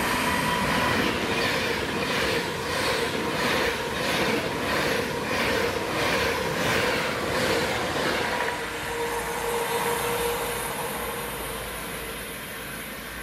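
A train passing close by, its wheels clicking over the rail joints about twice a second, with a faint steady whine, then the sound fading away near the end.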